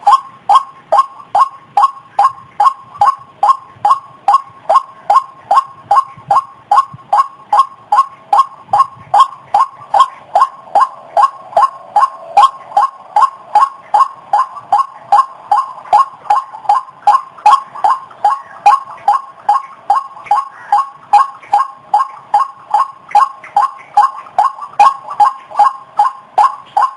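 White-breasted waterhen (ruak-ruak) calling: a long, even series of short repeated notes, about two a second.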